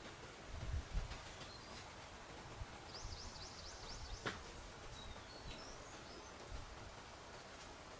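Wild birds calling: short high chirps and one quick trill of rapidly repeated notes, over a faint steady background hiss. There are a few low thuds in the first second and a single sharp click a little past halfway.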